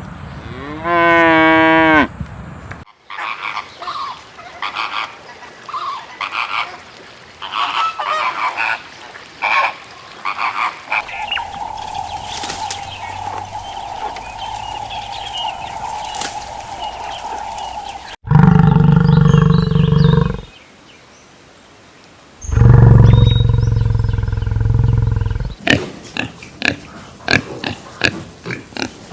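A string of different animal calls, one after another: a short rising call, a run of short repeated calls, a long steady call, then two loud low calls of two to three seconds each, and quick short calls near the end.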